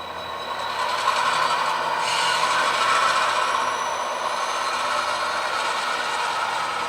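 HO scale model diesel locomotive's sound decoder playing diesel engine sound as the train starts shoving back: it grows louder over the first few seconds, then runs steadily.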